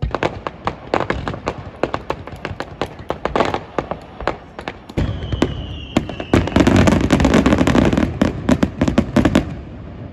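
Aerial firework shells exploding: a quick string of sharp bangs and crackling, a heavier boom about five seconds in with a brief falling whistle, then a dense barrage of booms and crackle for about three seconds that fades near the end.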